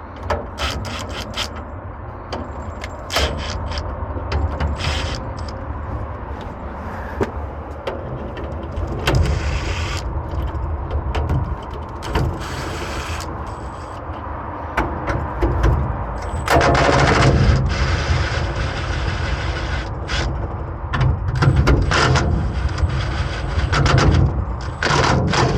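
Ratchet and socket clicking and metal clanking as feeder lugs are worked, in irregular short bursts, over a steady low engine rumble.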